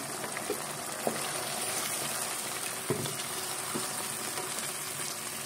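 Chicken frying in oil in a pan, a steady sizzle, with a few light knocks about half a second, one, three and four seconds in.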